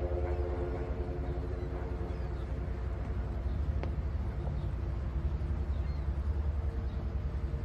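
Steady low rumble of a motorboat engine under way, with soft sustained background music.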